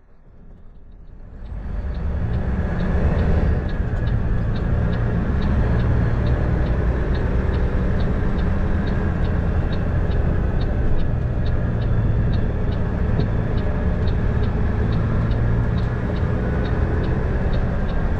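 Diesel truck engine pulling hard, rising to a loud, steady run about a second and a half in. A regular ticking of about three a second runs over it: the turn-signal indicator ahead of a left turn.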